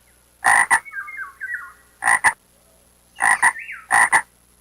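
A frog croaking: four loud calls, each two quick croaks in a row, with fainter short chirps between them.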